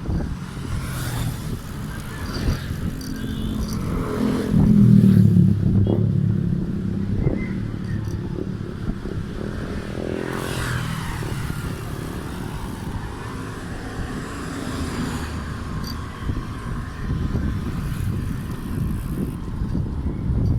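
Wind and road noise on a moving bicycle's camera microphone, with a motor vehicle, likely a motorcycle, passing loudly about four to six seconds in and more traffic later on.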